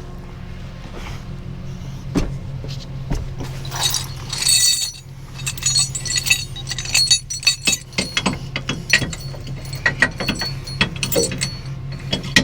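Tow chains and hooks clanking and jingling in a rapid irregular series of metallic clinks, as they are handled and hooked to a car's control arms, with an engine running steadily underneath.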